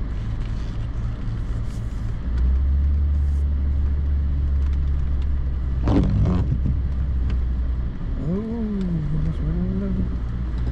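Vehicle engine running during snow plowing, with a deeper, louder drone from about two seconds in, a sharp clank about six seconds in, and the engine revving up and down a few times near the end.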